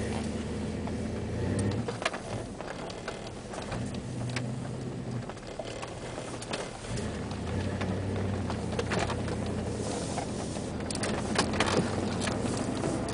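Jeep Grand Cherokee 5.9 V8, fitted with aftermarket headers and a Magnaflow exhaust, heard from inside the cabin as the Jeep pulls away and drives. The engine note swells and eases several times, with a few light clicks near the end.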